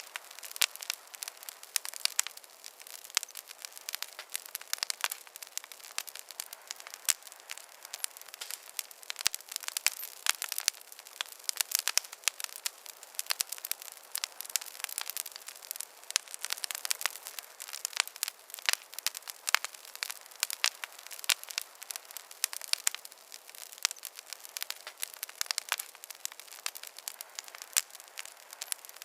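Fireplace wood fire crackling: dense, irregular pops and snaps over a soft hiss.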